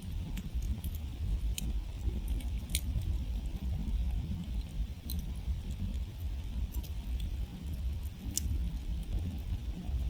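Wood campfire burning, with irregular sharp crackles and pops from the burning wood, a few a second at most, over a steady low rumble.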